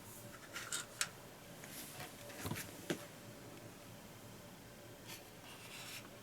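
Small plastic model kit parts handled by hand: a few light clicks and short rustles, with the sharpest click about three seconds in.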